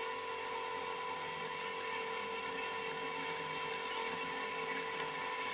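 A small electric motor running steadily with an even whine, unchanging throughout.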